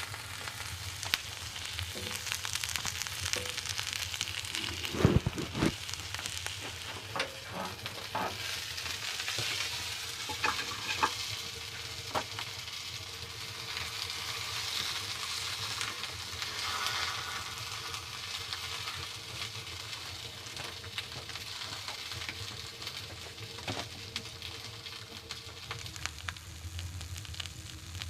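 Food sizzling in a pan, a steady frying hiss, with scattered knocks and scrapes of a utensil stirring, the loudest about five seconds in.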